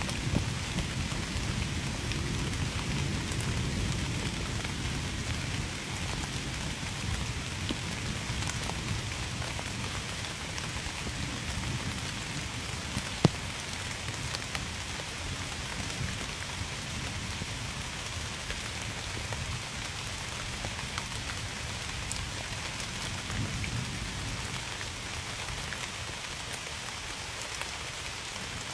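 Steady rain falling and pattering on surfaces, with a low thunder rumble that dies away over the first several seconds. One sharp tap stands out about halfway through.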